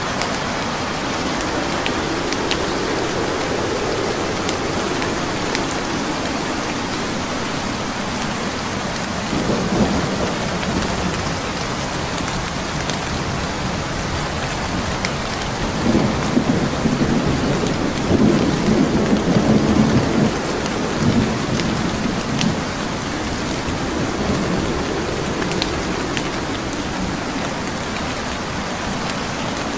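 Steady heavy rain with rolling thunder rumbles, once about a third of the way in and again through the middle. Sparse sharp crackles from a burning wood fire sound over it.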